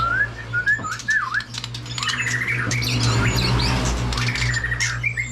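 White-rumped shama singing in a cage: a run of sliding, looping whistled notes in the first second or so, followed by quick chirps and clicks among other caged songbirds, over a steady low hum.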